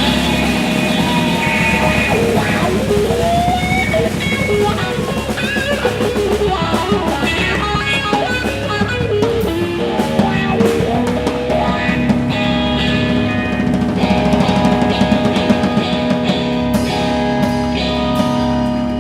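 Live blues-rock trio playing an instrumental passage: an electric guitar lead with bending, gliding notes over bass guitar and drum kit.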